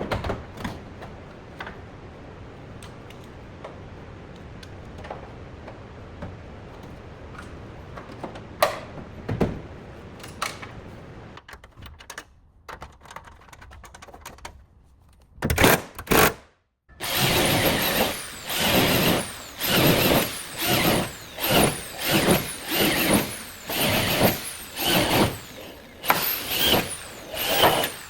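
Light knocks and clicks of hand work on a car body. About halfway through, a power tool starts running in short, loud bursts, a little more than one a second.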